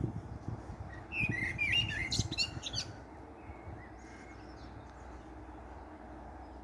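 Songbird singing a quick run of chirping notes for about two seconds, starting about a second in, then fainter calls, over a low outdoor background rumble.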